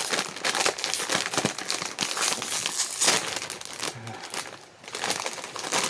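A bag of Lay's potato chips crinkling and rustling as it is torn open.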